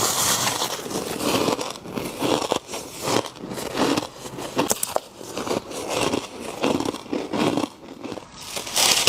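Close-miked bites into soft, powdery freezer frost: a run of squeaky, crunchy bites and chews, about one a second.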